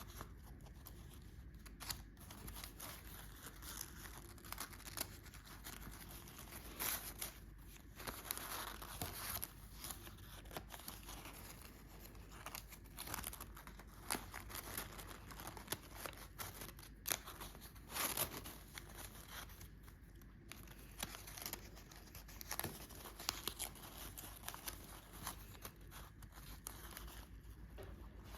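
Paper strips rustling and crinkling as they are handled and woven into a paper Christmas heart basket: irregular soft crackles with small sharp clicks scattered throughout.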